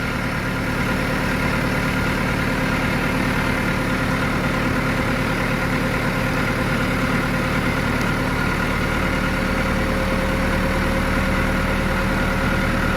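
Massey Ferguson MF 375 tractor's four-cylinder diesel engine running steadily, a little louder from about a second in.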